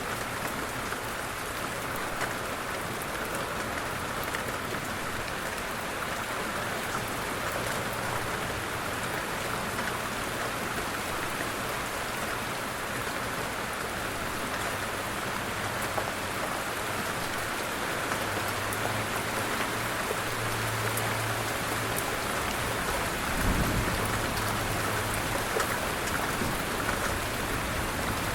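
Steady light rain falling, an even hiss of many small drops. A brief low rumble comes about three-quarters of the way through.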